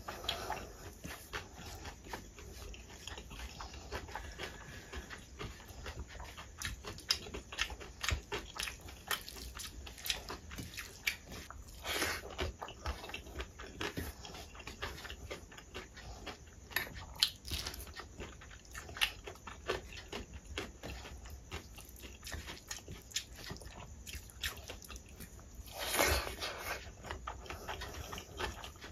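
Close-miked chewing and mouth smacking on mouthfuls of soft rice mixed with dal and potato fry, with many small wet clicks and a couple of louder bites, about twelve seconds in and near the end. Soft squishing of fingers mixing the rice on a steel plate comes in between.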